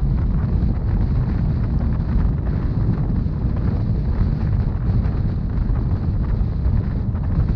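Rhaetian Railway narrow-gauge passenger train running along the track: a steady low rumble of wheels and running gear, with wind noise on the microphone.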